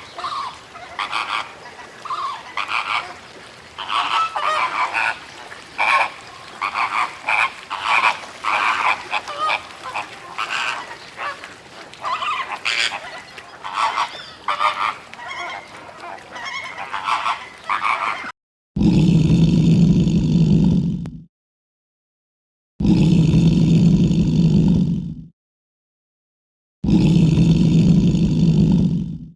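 Many short honking calls from a flock of birds, close together and uneven. Then three long, loud, low calls of about two and a half seconds each, with silence between them.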